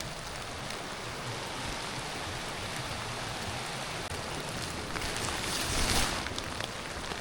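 Steady rain falling, an even hiss. A louder rustling swell comes about five to six seconds in.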